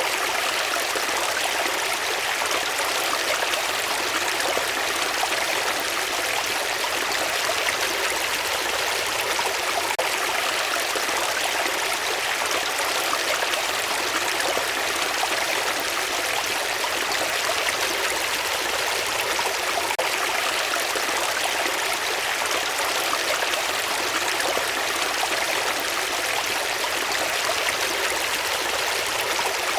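Running water flowing steadily, an even rushing hiss with no breaks or separate splashes.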